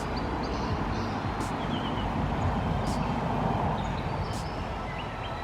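A car driving on a road, with steady road and engine noise. A few short, high chirps, like birdsong, sound over it.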